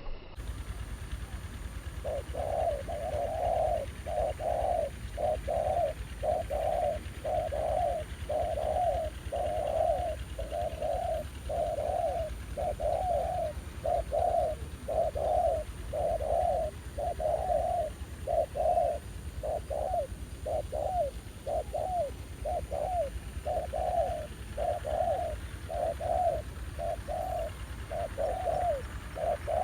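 Spotted doves cooing: a long, unbroken run of short coo notes, about one every 0.7 seconds, starting about two seconds in, from the decoy and a wild dove answering it at a trap site. A steady low rumble runs underneath.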